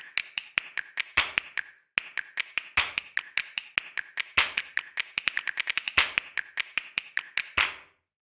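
A rapid run of sharp clicks or taps, several a second, with a short pause about two seconds in, stopping shortly before the end.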